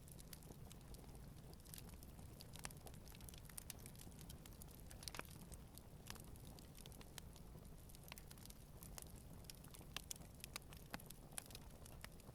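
Wood campfire burning gently, crackling faintly with irregular small pops and snaps, a few sharper ones standing out, over a low steady rumble.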